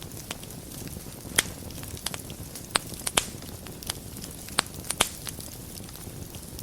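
Wood fire burning in a fireplace: a steady low rumble of flame with scattered sharp crackles and pops, a few of them louder, about a second and a half in and again between about three and five seconds.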